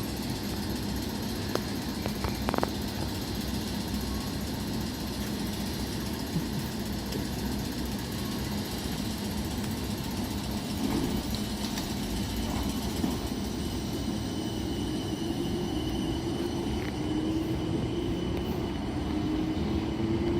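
Class 455 electric multiple unit running, a steady rumble with a low hum. From about two-thirds of the way in, a motor whine rises slowly in pitch as the train picks up speed.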